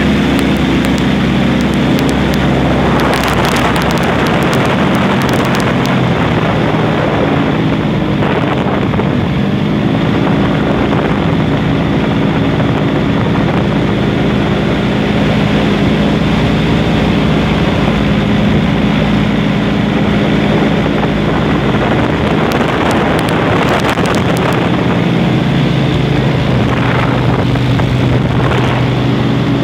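Airboat engine and propeller running steadily, with wind buffeting the microphone at times.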